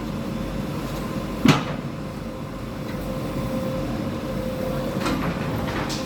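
Bulldozer running steadily at a demolition, with one sharp bang about one and a half seconds in and a couple of lighter knocks near the end.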